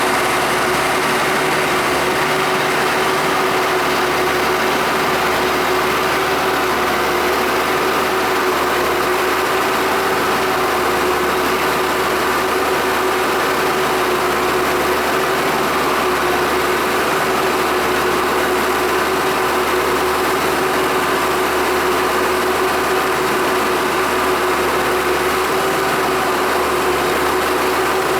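Valtra T160 tractor engine running steadily at constant speed, with a steady whine over it.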